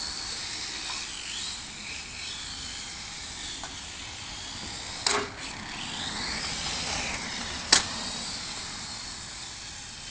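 High-pitched whine of Losi 1/24 micro rally RC cars' small electric motors and gears, rising and falling as the throttle changes, over a steady hiss. Two sharp knocks, about five seconds in and near eight seconds, the second the loudest.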